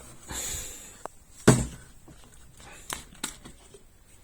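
Handling noises as milk is taken out: a brief rustle, then one loud knock about one and a half seconds in, and two lighter clicks near the end.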